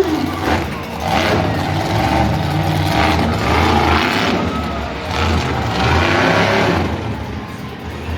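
Monster truck engine running loud with a deep rumble, revving in repeated surges about once a second.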